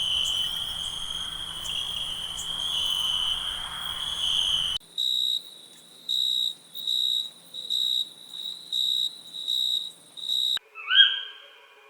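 Crickets or similar insects trilling steadily, switching abruptly about five seconds in to high chirps at a regular pace, about one every three-quarters of a second. Near the end a single call of another animal starts, rising in pitch and then holding level.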